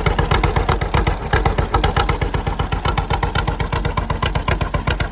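John Deere tractor engine idling with a steady, even chug of about six or seven beats a second.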